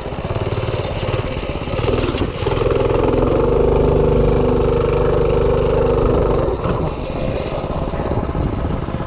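Small minibike engine running: it picks up to a steady higher speed about two seconds in, holds there for about four seconds, then drops back to a rougher, lower run.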